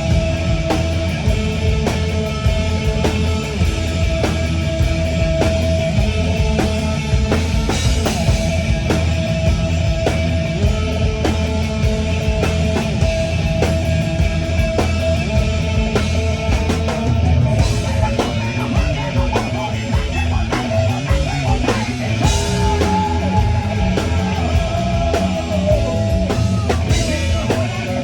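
Rock band playing live: a full drum kit hitting steadily under guitars and bass, with a long held melody note over the top.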